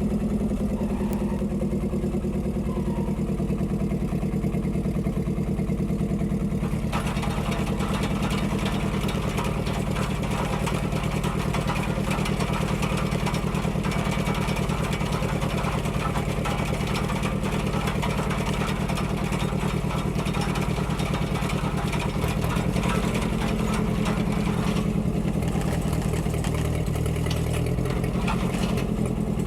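1946 Ford 2N tractor's four-cylinder flathead engine running steadily while it drives a post hole digger auger. About seven seconds in, a harsher, noisier rattle joins the engine note as the auger works, and it eases again a few seconds before the end.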